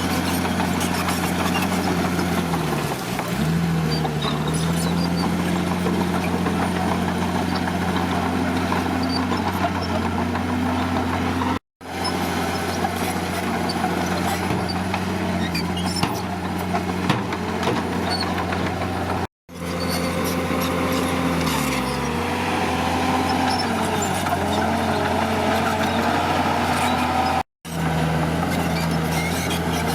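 A crawler bulldozer's diesel engine running steadily, its pitch dipping briefly twice as it lugs down under load. The sound cuts off for a split second three times.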